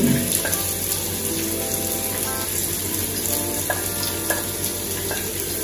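Chopped onion, scallion and thyme sizzling as they are scraped into a hot aluminium pot, with a wooden spoon clicking against the plate a few times.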